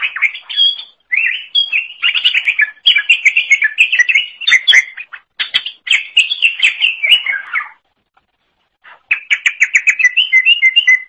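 Cucak ijo (green leafbird) singing a fast, varied song of rapid chirps and trills. It pauses for about a second past the middle, then resumes with a quick run of repeated notes.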